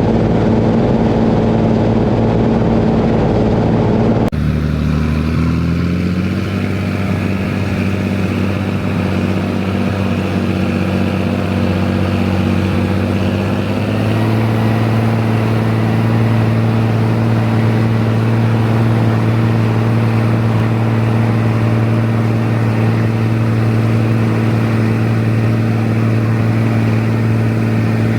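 Rába 250's diesel engine running steadily. About four seconds in the sound changes abruptly, then the engine speed rises over a couple of seconds and settles. It steps up again about halfway through and holds steady.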